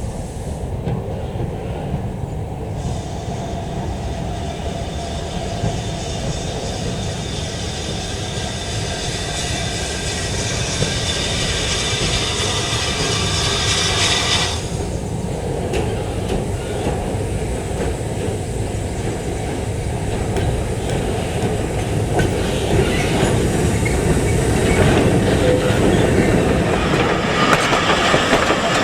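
A train running on the railway line, its wheels clattering over the rail joints. A thin, high wheel squeal starts a few seconds in and cuts off suddenly about halfway. The running grows louder toward the end.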